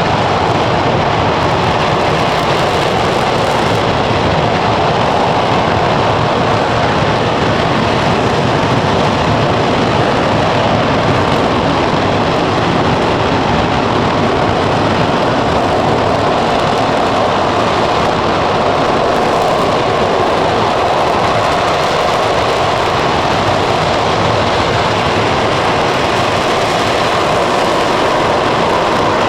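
Aerojet Rocketdyne RS-25 liquid-hydrogen/liquid-oxygen rocket engine firing on a test stand: a loud, steady noise that holds at the same level throughout.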